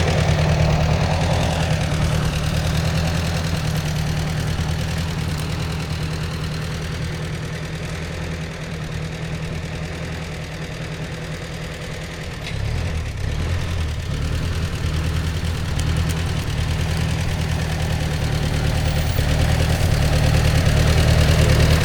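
Old Ford Jubilee tractor's four-cylinder gasoline engine running steadily as it pulls a plow through a potato row. It fades somewhat in the middle and grows louder again from about halfway on.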